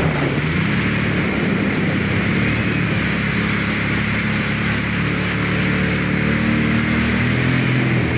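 Jet ski engine running at a steady cruising speed over a steady hiss; its pitch dips and climbs back about half a second in, then holds steady.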